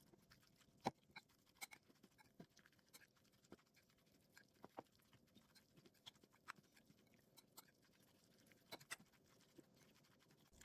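Spoon scraping and clicking against a bowl as bibimbap rice and vegetables are mixed, heard as faint, scattered soft clicks and taps, two of them a little louder.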